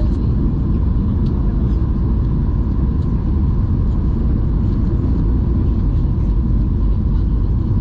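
Steady low rumble inside the cabin of a Boeing 737-800 airliner: its CFM56 jet engines and the airflow over the fuselage, with a faint steady whine above it.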